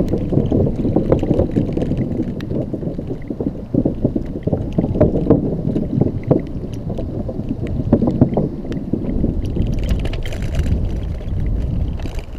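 Xiaomi M365 electric scooter rattling and jolting over a rough, bumpy surface: a dense, uneven clatter of low knocks and shakes.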